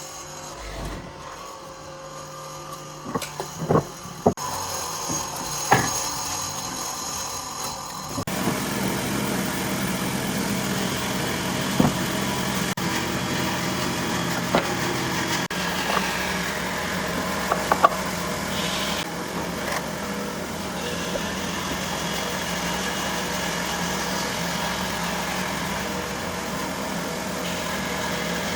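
A few sharp knocks of wood being handled, then an electric power tool starts about eight seconds in and runs steadily with a low hum.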